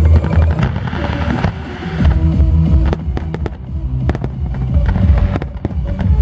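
Fireworks bursting and crackling over loud music with a heavy bass beat from a pyromusical show; a hissing crackle about a second in, then a run of sharp bangs and pops.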